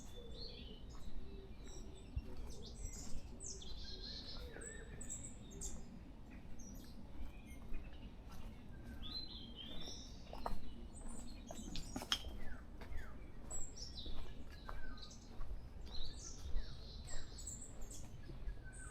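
Forest birds calling: scattered short, high chirps and whistles from several birds, over a steady low rumble.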